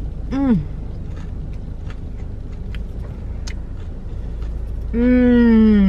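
Chewing with small wet mouth clicks over a steady low rumble inside a car cabin. There is a short 'mm' about half a second in, and near the end a long, slightly falling 'mmm' of enjoyment.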